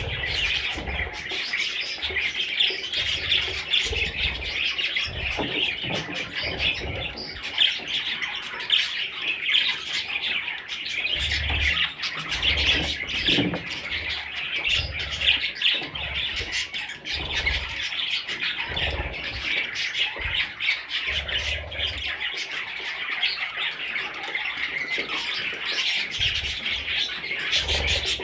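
Budgerigars chattering and squawking continuously: a dense stream of short, scratchy calls and warbles, with low thumps now and then.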